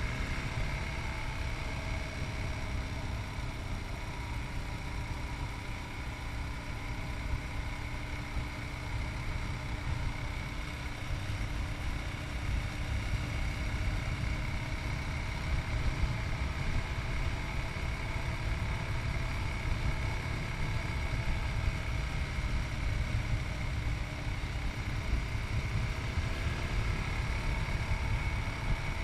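Yamaha MT-03's 660cc single-cylinder engine running at a steady road speed, with a heavy wind rumble on the chest-mounted microphone.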